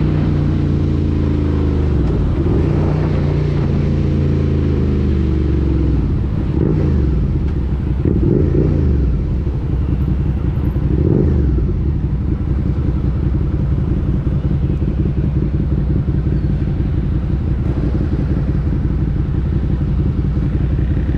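Suzuki SV650's 90-degree V-twin through an SC-Project slip-on exhaust, its note falling as the bike slows to a stop. Three short rises in revs come in the middle. The engine then idles steadily for the last nine seconds or so.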